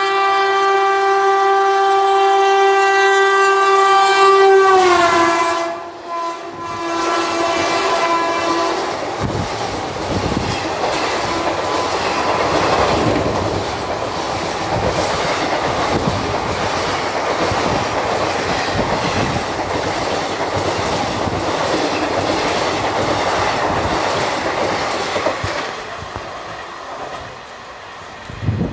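WAG-9H electric locomotive's horn held in one long blast, dropping in pitch about five seconds in as the locomotive passes. The passenger coaches then rush by at speed with a dense clatter of wheels over rail joints that fades near the end.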